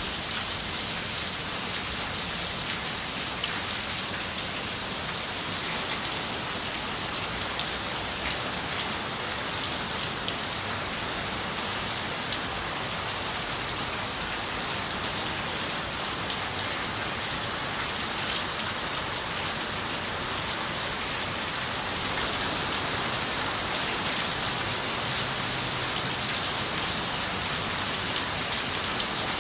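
Steady rain on a window pane: an even hiss of rainfall with single drops ticking here and there, a little heavier from about two-thirds of the way through.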